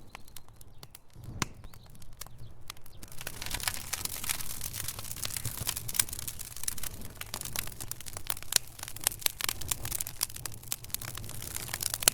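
Logs burning in a fireplace, crackling with many sharp pops that grow denser and louder about three seconds in, over a low steady rumble.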